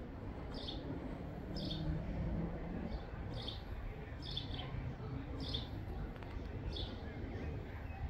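A bird giving short, high chirps, one about every second, over a low steady background rumble.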